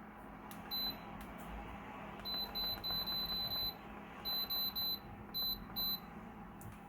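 Digital alarm or timer beeping: short, high-pitched electronic beeps all on one tone, coming singly and in quick runs of three to five, over a faint steady hiss of room noise.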